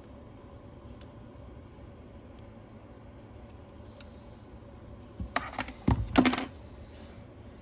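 A quick cluster of sharp clicks and knocks, one with a dull thump, from small tools or parts being handled and set down on a workbench during a tablet repair, after a faint single click.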